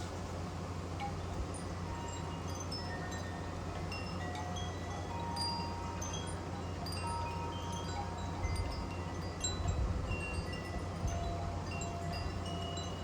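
Wind chimes ringing in gusty wind, short clear tones at many different pitches struck irregularly, over a steady low rumble of wind.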